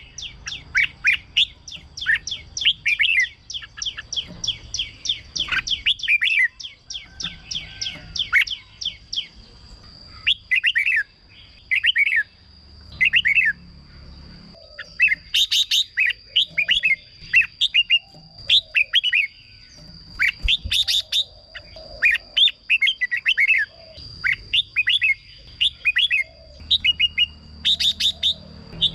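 Red-whiskered bulbul singing: quick, rapid runs of short chirpy notes at first, then separate warbling phrases a second or so apart. A faint steady high tone runs behind the song, plainer from about a third of the way in.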